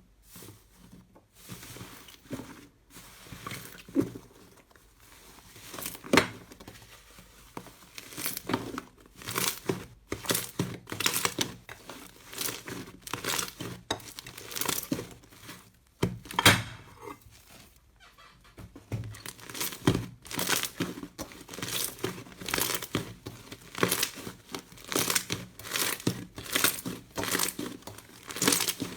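Slime worked by hand, giving a run of crackling, popping clicks. One louder snap comes a little past halfway, followed by a short quieter spell before the crackling thickens again.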